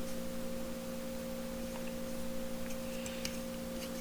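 Steady background hum of two level tones, one low and one higher, with a few faint light clicks of small parts being handled.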